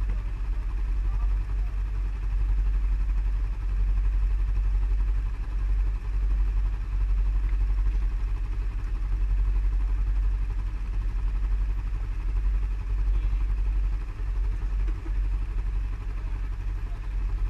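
ATV (quad bike) engine running on the move, a continuous heavy low rumble whose loudness wavers up and down without stopping.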